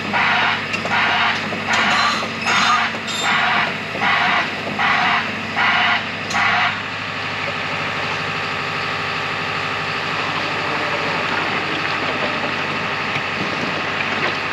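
A hissing, white-noise style backup alarm pulsing about one and a half times a second over a heavy diesel engine running. The alarm stops about halfway through and the diesel runs on steadily.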